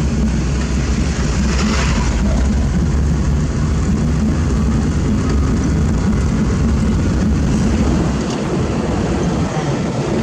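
Heavy diesel construction machinery running with a steady low rumble, with a brief hiss about two seconds in; the deepest part of the rumble drops away about eight seconds in.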